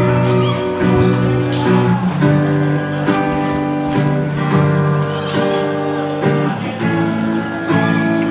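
Strummed acoustic guitar playing a song's instrumental intro, the chords changing about once a second.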